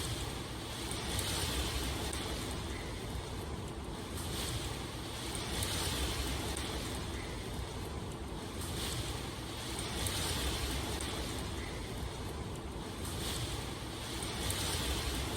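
Steady rain ambience: a dense rushing hiss over a low rumble, swelling and easing every second or two.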